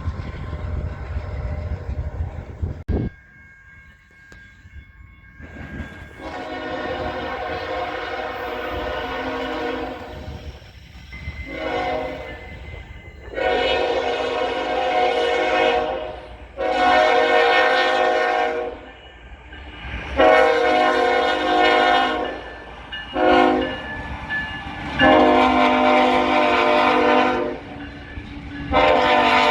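Locomotive air horn sounding a run of chord blasts, mostly long with a couple of short ones, including a long-long-short-long stretch like a grade-crossing signal. A low rumble before it cuts off suddenly about three seconds in.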